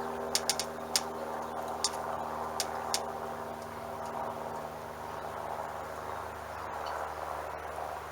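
Small water pump running steadily with water rushing through a propane tankless water heater that fails to ignite: no burner or igniter firing. A few sharp clicks come in the first three seconds.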